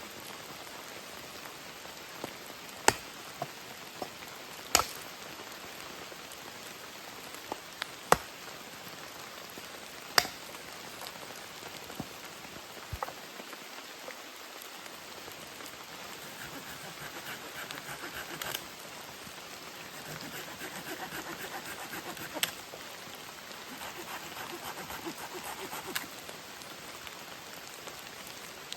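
Steady heavy rain falling, with single loud drops landing sharply every few seconds.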